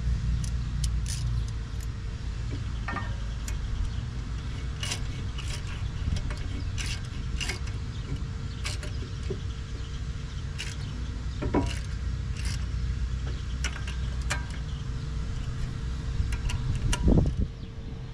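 Scattered light metal clinks and rattles of brake parts and hand tools being handled, over a steady low hum, with a louder knock near the end.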